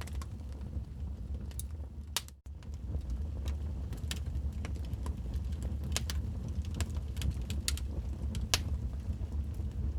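Wood fire crackling in a fireplace: irregular sharp pops and snaps over a steady low rumble, with one louder snap near the end. The sound drops out for an instant about two and a half seconds in.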